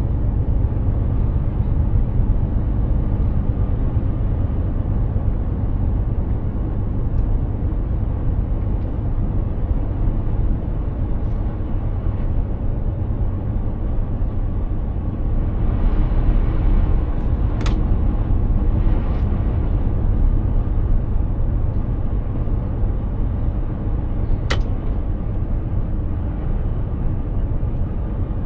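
Mercedes-Benz Actros 2763 truck driving: a steady low engine and road rumble with tyre noise. Two sharp clicks stand out, one a little past the middle and one near the end.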